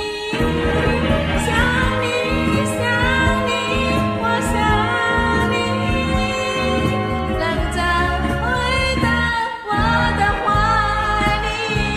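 A singer's voice carrying a Mandarin pop song over a recorded musical backing track.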